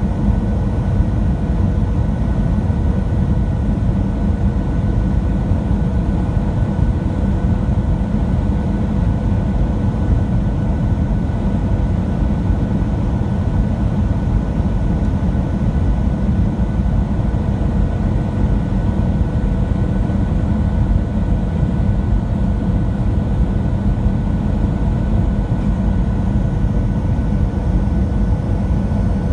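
Steady cabin drone inside a Boeing 737-700 in flight: a deep, even rumble of engine and airflow noise, with a few faint steady tones above it.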